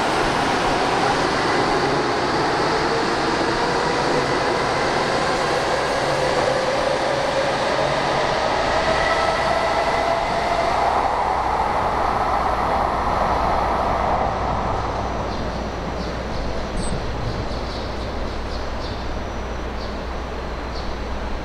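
N700S Shinkansen train pulling out of the station and accelerating. Its motor whine rises steadily in pitch over the running noise, then fades about fourteen seconds in.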